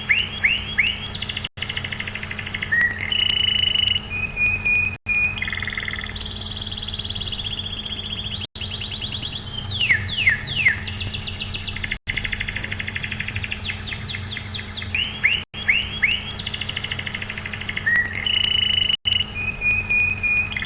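Recorded birdsong played as a sound track: runs of down-swept whistles, rapid trills and short held notes that repeat in a loop, over a steady low hum. Brief dropouts come every few seconds.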